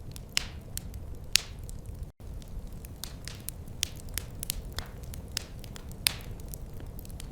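Wood fire crackling: irregular sharp pops and snaps, a few much louder than the rest, over a low steady rumble of the flames. The sound cuts out for an instant about two seconds in.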